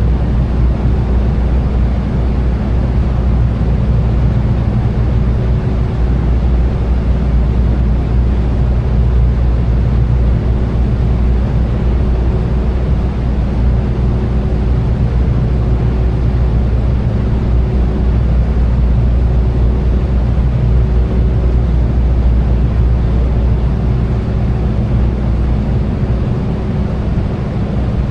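Tour boat's engine running steadily while cruising, a constant low drone.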